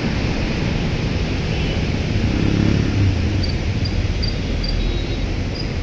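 Heavy rain pouring down as a loud, steady hiss, with a vehicle engine hum swelling briefly about halfway through.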